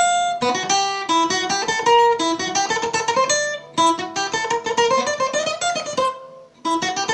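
Acoustic guitar playing a fast single-note run over and over, each run climbing in pitch over roughly a second and a half, as a passage is practised by repetition. Near the end the notes die away briefly before the run starts again.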